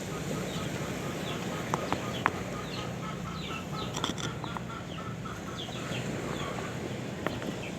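Birds calling: many short falling chirps and a run of quick repeated clucking notes, with a few sharp clicks, over a steady wash of sea-wave noise.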